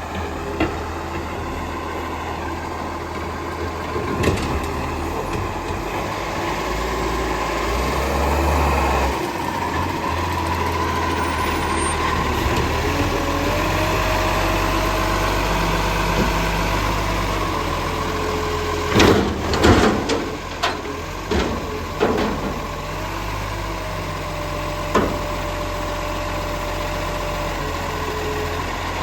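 Garbage truck engine running steadily, with a held whine over it and a cluster of loud knocks about two-thirds of the way through, then one more shortly after.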